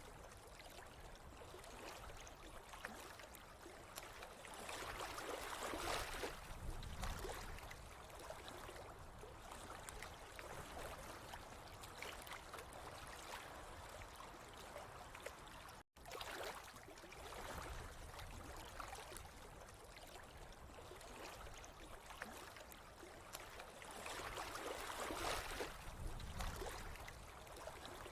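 Water trickling and flowing steadily, swelling louder twice, with a split-second dropout about halfway through.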